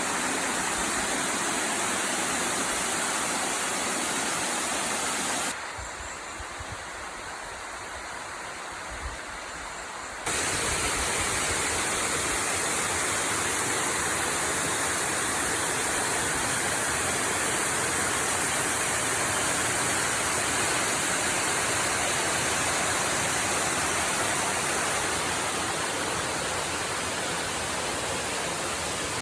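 Waterfall rushing as a steady hiss of falling water. It turns quieter and duller for about five seconds near the start, then returns as loud as before.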